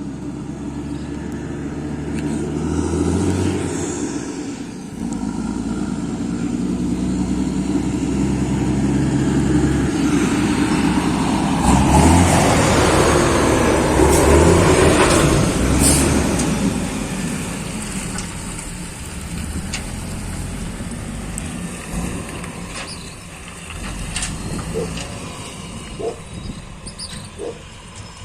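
Mack truck's diesel engine running as the truck drives past, growing louder to a peak between about twelve and sixteen seconds in, then fading away.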